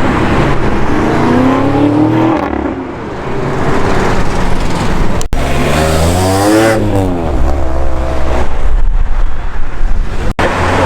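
Supercar engines accelerating hard, the engine note climbing in pitch over the first couple of seconds. A second loud rev rises and then falls in pitch about six seconds in, over a steady low engine rumble.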